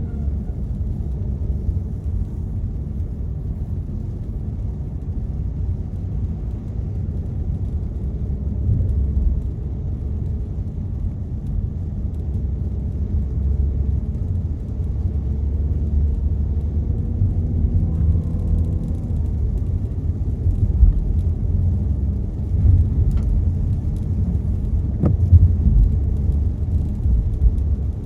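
Car driving on a rainy road, heard from inside the cabin: a steady low rumble of tyres and engine that swells and eases gently, with a few faint ticks near the end.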